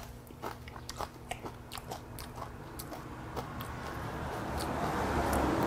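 Close-up chewing of crisp yeolmu (young radish) kimchi: a run of small crunching clicks through the first half. A breathy sound swells near the end.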